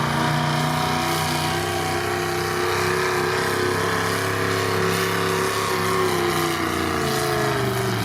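Pro street gasoline pickup truck engine running at high, steady revs under load while pulling a sled. Its pitch sinks near the end as the run winds down.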